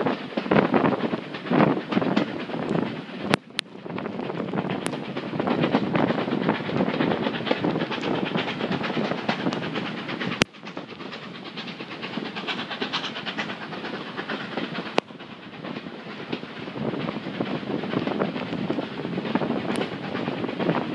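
Railway carriages running along the track, heard from an open carriage window: wheels clattering over the rails under a steady rush of passing air. Wind buffets the microphone in the first couple of seconds, and a few sharp clicks stand out.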